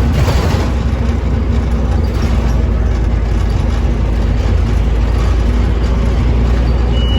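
Scania OmniCity bus engine running steadily with a low hum. There is a brief surge of noise at the very start and a short high beep near the end.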